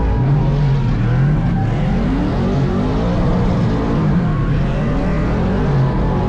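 Burnout truck engine revving hard, its pitch rising and falling again and again as the throttle is worked while drifting.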